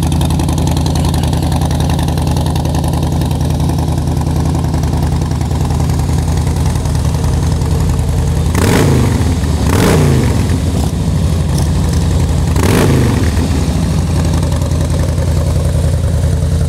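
Harley-Davidson Fat Boy Low's 103 cubic inch V-twin idling through aftermarket chrome slash-cut mufflers. It is revved three times in quick blips in the second half.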